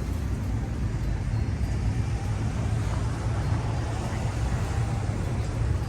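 Steady low rumble of street traffic, cars idling and rolling by at low speed.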